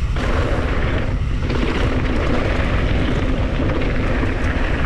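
Heavy, steady wind rumble on the camera microphone of a mountain bike riding fast downhill, mixed with the rolling noise of the bike on the trail.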